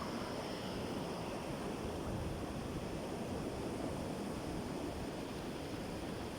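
Sea surf: a steady, even rushing wash of waves.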